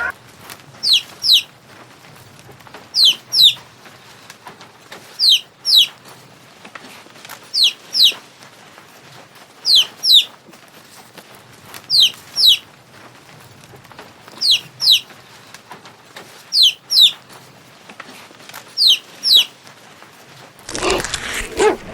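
A bird chirping in evenly spaced pairs of short, high, falling chirps, about one pair every two seconds. A louder, rougher sound starts about a second before the end.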